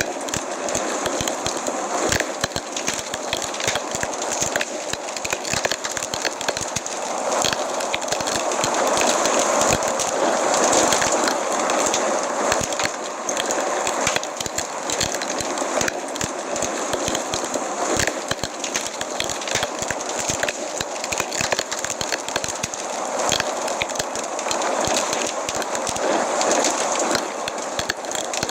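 Wood fire crackling in a fireplace: frequent sharp pops and snaps over a steady hissing rush that swells and eases every few seconds.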